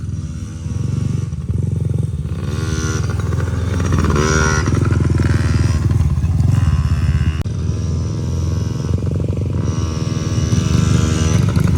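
Yamaha PW50's small two-stroke single engine running as the bike is ridden, revving up several times and easing off between.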